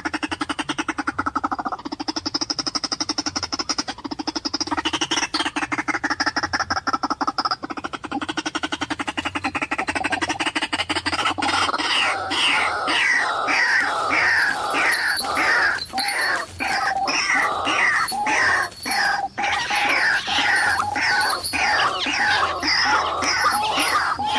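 White-breasted waterhen calling: a rapid, buzzy, pulsing croak for about the first ten seconds, then a long run of repeated falling notes, two or three a second.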